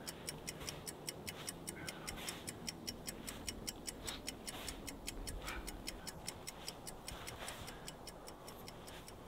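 Quick, even ticking of a clock sound effect, faint and steady.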